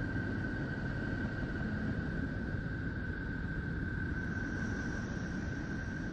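Space sound recording, spacecraft data turned into audio: a steady low rumbling hiss with one steady high tone.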